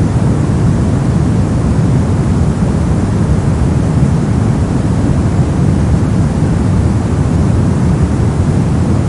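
Steady white noise, an unbroken even hiss that never changes in level, its weight in the low end giving it a deep, rushing sound.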